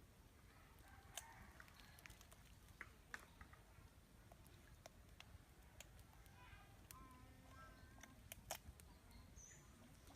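Near silence with faint scattered clicks, and a few faint short animal calls about two-thirds of the way in.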